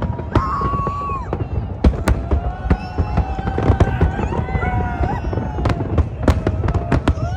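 Fireworks going off: a rapid, irregular series of sharp bangs and crackles over a steady low rumble, with held whistle-like tones that each sag in pitch as they end.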